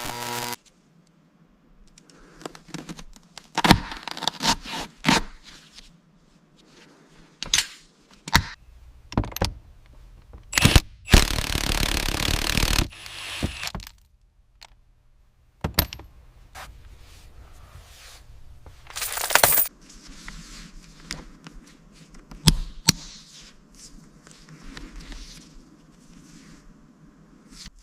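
Irregular metallic clinks, knocks and scrapes, like metal parts and tools being handled, with a loud hiss lasting about two seconds starting about eleven seconds in, and a shorter one near twenty seconds.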